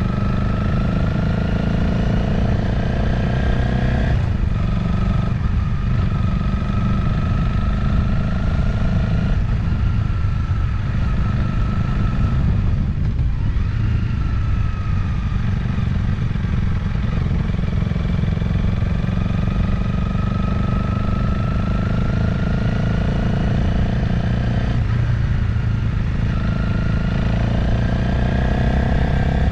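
Motorcycle engine under way at road speed, its pitch climbing and then breaking at gear changes about 4 and 25 seconds in. For a stretch in the middle the engine note fades as the throttle eases, and a steady low wind rumble on the microphone runs throughout.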